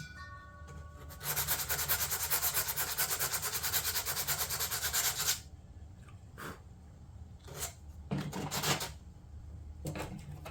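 Sandpaper rubbing over a fiberglass door panel. About four seconds of fast, even back-and-forth strokes come first, followed by a few short separate strokes.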